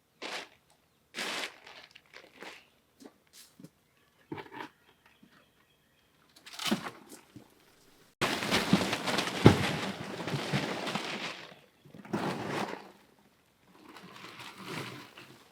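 Scattered crunches and knocks, then about halfway in a dense stretch of crumbling, crunching noise with sharp knocks that starts suddenly and lasts about four seconds, followed by a softer patch near the end.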